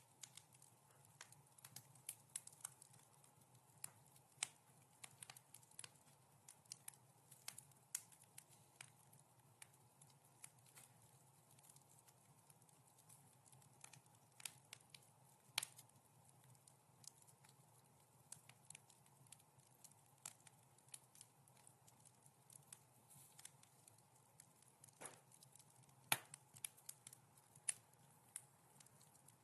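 Fireplace wood fire crackling softly: irregular sharp pops and snaps over a low steady rumble, with a few louder pops, the loudest about 26 seconds in.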